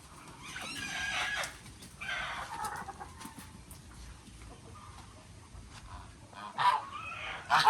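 Chickens clucking and calling in several bursts, loudest near the end.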